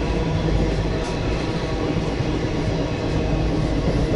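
Indian Railways passenger coach running along the track, heard from inside the carriage as a steady, even rumble.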